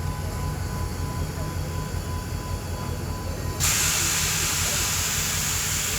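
A train rumbles steadily and low at the station. About three and a half seconds in, a loud hiss starts suddenly and keeps on evenly, then cuts off at the end.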